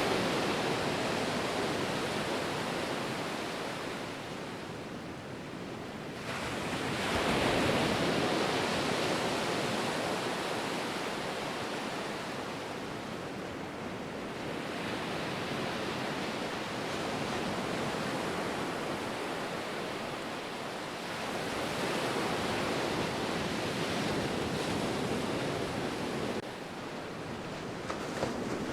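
Ocean surf: waves breaking and washing in, the rush swelling and fading every six to eight seconds, with a sudden surge about six seconds in.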